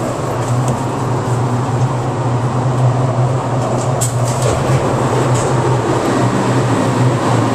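New York City subway R62A car running along the track, heard from inside the moving car: a steady rumble of wheels on rail with a low motor hum. There is a brief sharp click about four seconds in.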